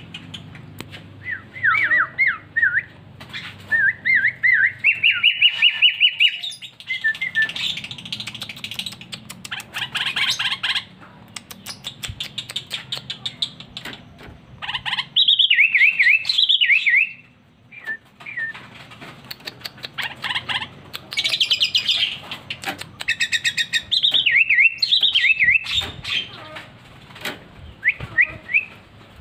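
Sooty-headed bulbul (kutilang) singing in loud bouts of fast, varied warbling phrases and rapid trills. The song is full of mimicked songs of other birds.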